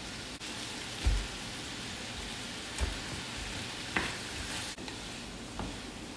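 Food sizzling as it fries in a pan, a steady hiss, with four dull knocks spread through it, the first the loudest.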